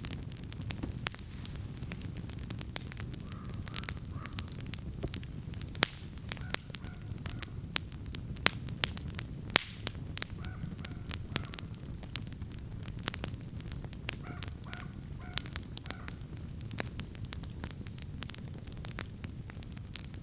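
Wood campfire crackling, with frequent sharp pops and snaps over a steady low rush of burning flame.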